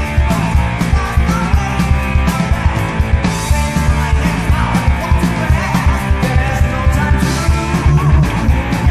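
Heavy metal band playing loud: electric guitars, bass guitar and drums together, with cymbal washes about three seconds in and again near seven seconds.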